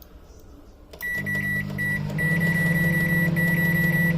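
Microwave oven beeping several times as its time is keyed in, then starting up about a second in with a steady low running hum while it heats a dish of compost.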